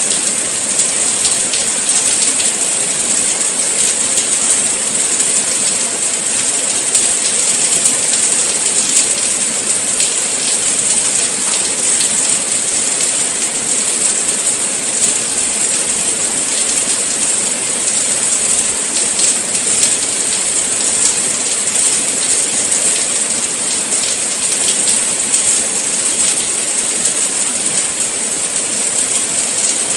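Steady rain falling, a dense even hiss with fine scattered patter of drops.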